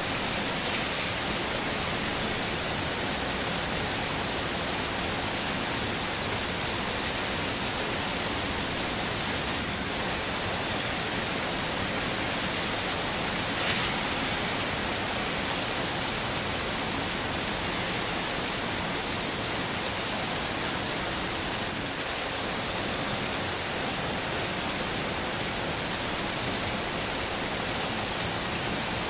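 Heavy rain falling as a steady, even hiss, dipping briefly twice.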